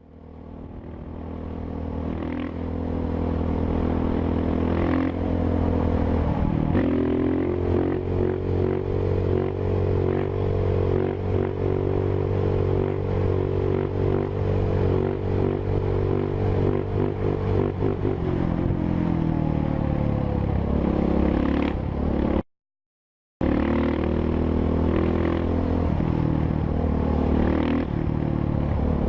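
Motorcycle engine running hard: it climbs in pitch, holds high and steady for a long stretch, then drops off. After a brief cut to silence, the engine runs again.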